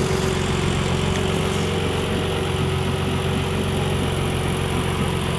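1991 Nissan 300ZX Twin Turbo's 3.0-litre twin-turbo V6, fitted with an upgraded exhaust, idling steadily.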